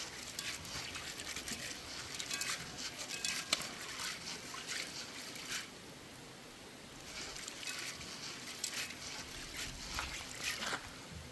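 Peas being washed by hand in water: irregular splashing and sloshing, with a short lull about halfway through.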